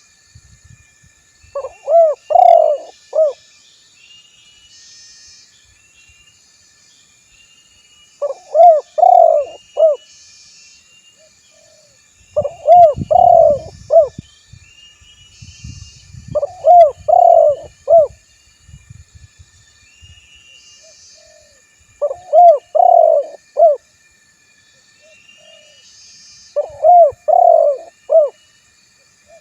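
Male spotted dove (tekukur) cooing its territorial call: six repeated phrases of a few quick coos, each about a second and a half long, every four to six seconds. Faint insects chirr in the background.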